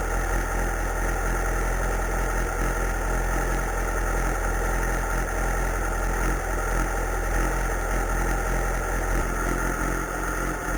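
Yamaha YZF R6 sport motorcycle's inline-four engine idling steadily, its pitch holding level with no revs.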